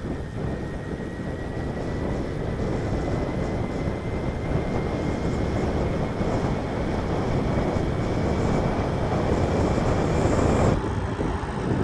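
Wind rushing over an action camera's microphone while riding a road bike at speed, a steady rumbling noise, with a faint thin whine slowly rising in pitch under it. The sound changes abruptly near the end.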